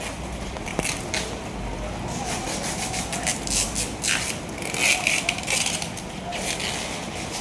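Busy street ambience in heavy rain: a steady wash of noise with irregular scraping and crackling bursts, faint voices and vehicle sounds.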